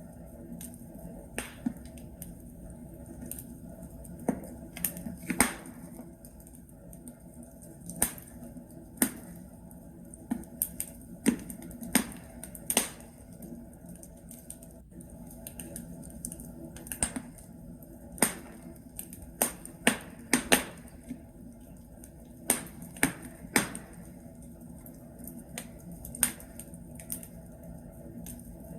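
Wood logs crackling in a fireplace fire: irregular sharp pops and snaps, some much louder than others, over a steady low hiss of the burning fire.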